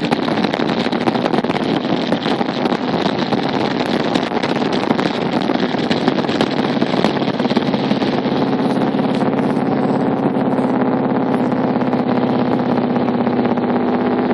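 Motorcycle riding at a steady speed, with wind rushing over the microphone. The engine's steady note comes through more clearly in the second half as the wind noise drops.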